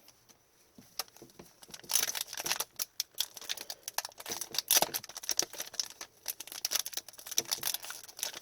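Crinkling and crackling of trading-card pack wrappers and cards being handled, a dense run of small sharp crackles starting about a second in.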